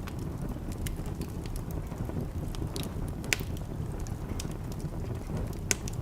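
Wood fire burning in a fireplace: a steady low rumble of flames with scattered crackles and pops, the sharpest pops about three seconds in and near the end.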